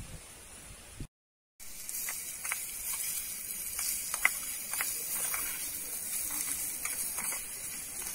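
Diced vegetables sizzling in a small steel pan over a tiny wood fire: a steady high hiss with scattered small clicks as a spoon stirs them. The sound drops out for half a second about a second in.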